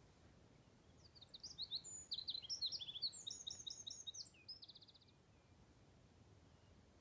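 A songbird sings one phrase of quick, varied high notes starting about a second in and ending in a fast, even trill, over faint steady background noise.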